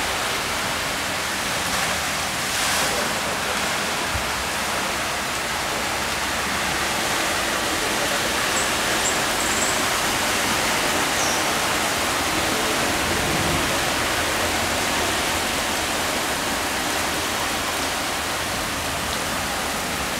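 Heavy rain pouring down with floodwater rushing across a flooded street, a steady hiss with no break.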